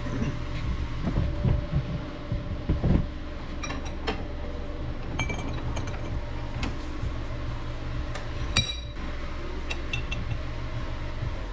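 Metal clinking and tapping as tools work a bearing's inner race out of an ATV rear axle: dull knocks in the first few seconds, then several sharp ringing metallic clinks. A steady low hum runs underneath.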